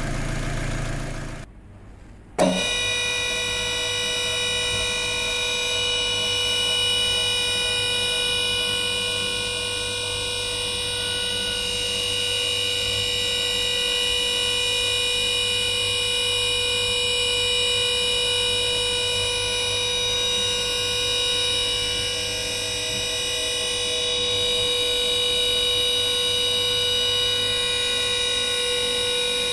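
A steady electronic-sounding drone of several held pitches, like a buzzer or sustained synth tone, that does not change. It starts after a brief drop-out about two seconds in.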